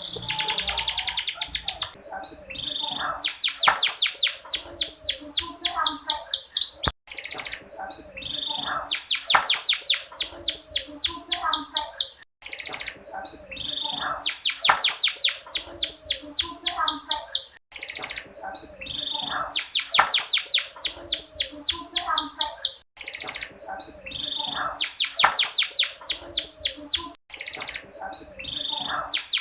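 Canary twittering in fast trills of repeated high notes. A phrase of about five seconds is looped over and over, with an abrupt cut between repeats. It is presented as a female canary's call in breeding condition, used to lure male canaries into singing.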